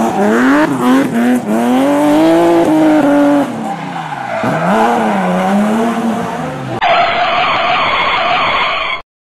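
Car engine revving sound effect, its pitch sweeping up and down several times. About seven seconds in it gives way to a harsher, hissing screech that cuts off suddenly.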